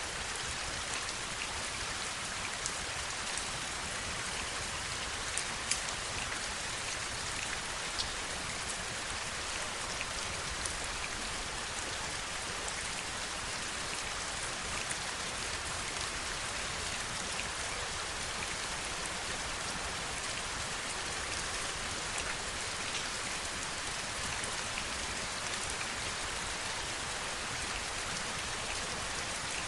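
Steady heavy rain, a dense even hiss, with a few sharper individual drop ticks standing out now and then.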